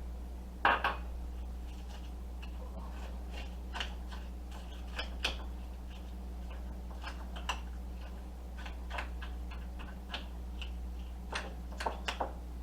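A spoon clicking and knocking against a mixing bowl now and then, as bacon is stirred into mashed potatoes, with a louder clatter about a second in. A steady low hum runs underneath.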